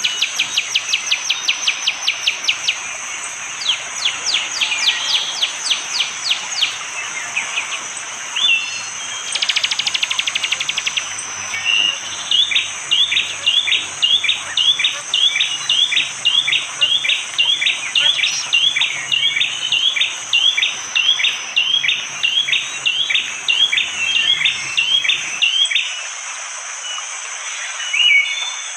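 Prinia (prenjak jali) calling in rapid-fire series. A fast trill of sharp high notes comes first, then a long run of short rising notes at about two a second that stops abruptly near the end, over a steady high insect drone.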